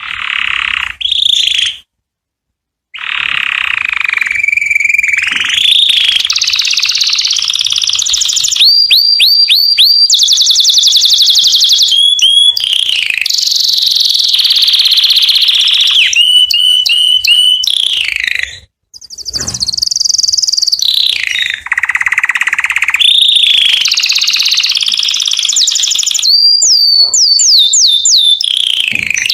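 Male canary singing loudly and continuously: rolling trills, fast runs of repeated notes and sweeping whistled glides. The song cuts to silence briefly twice, about two seconds in and about two-thirds of the way through.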